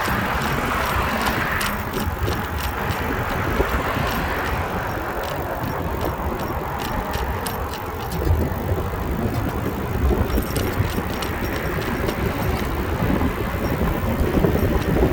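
Wind rumbling on the microphone of a moving bicycle, with tyre and road noise and scattered light clicks.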